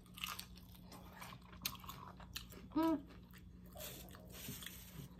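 Close-up chewing and biting of a fried egg roll, with many small crunches and wet mouth clicks. About three seconds in comes one brief hummed 'mm' from the eater.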